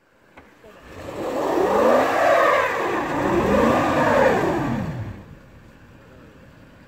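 Engine of a Toyota SUV revving, its pitch rising and falling twice over about four seconds, then dropping back to a quiet idle.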